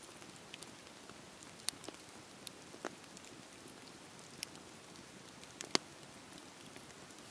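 Wood fire crackling in a fireplace: a soft steady hiss with scattered sharp pops, the loudest about five and a half seconds in.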